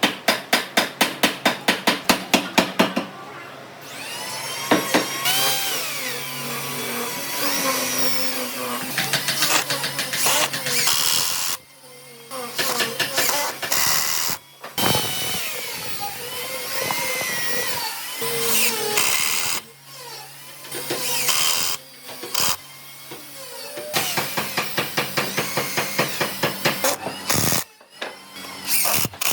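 Woodworking tools working wood: quick rhythmic strokes at about six a second, then a power tool running with its pitch rising and falling and stopping briefly now and then, and a second run of rhythmic strokes near the end.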